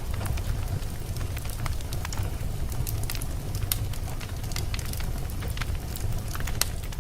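Wood fire crackling and popping, with many irregular sharp snaps over a steady low rumble of the flames.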